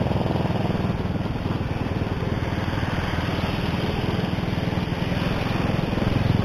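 Motorcycle engine running steadily at riding speed, heard from the rider's seat, its rapid firing pulses even throughout.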